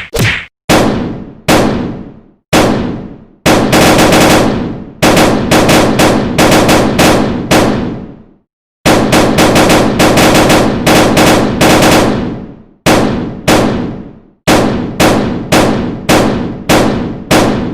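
Gunfire-like bang sound effects: single sharp bangs and rapid runs like machine-gun fire, each with a short ringing tail. There is a brief break about eight and a half seconds in.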